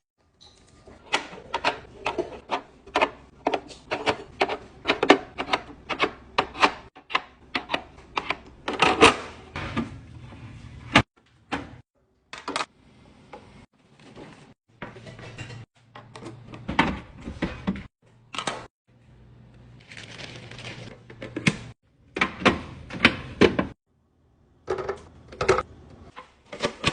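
Clatter of jars, bottles and food containers being handled and set down while a fridge is emptied and cleaned: a busy run of sharp knocks and clinks, several a second, broken by short pauses.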